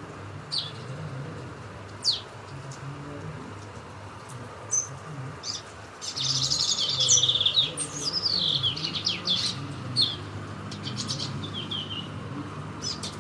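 Small songbirds singing: scattered high chirps, then a fast twittering song about six seconds in that lasts some three seconds and ends in a few falling notes, followed by more chirps. A low steady hum runs underneath.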